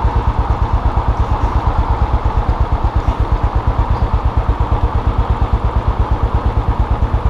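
Custom motorcycle engine running steadily at low revs, its exhaust beating in even pulses about seven times a second.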